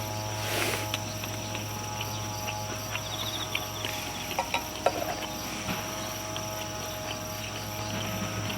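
Outdoor ambience with insects chirping: steady high tones, a short buzzing trill about three seconds in, and a few faint clicks.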